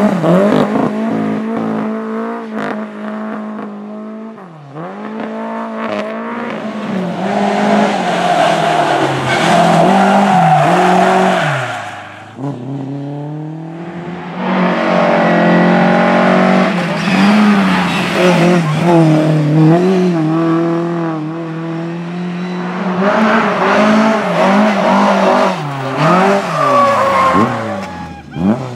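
Rally car engines at full throttle, their pitch climbing and dropping again and again as they change gear and lift for corners, with quieter gaps between runs.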